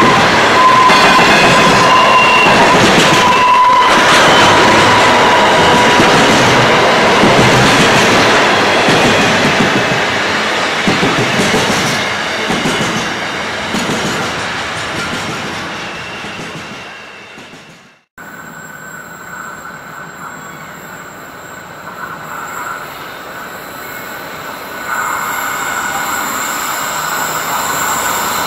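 Intermodal container freight train's wagons rolling past on steel rails, loud at first with high steady wheel squeal in the first few seconds, then fading as the last wagons pull away. About two thirds of the way through the sound cuts out abruptly and a much quieter steady background with a thin high-pitched tone follows.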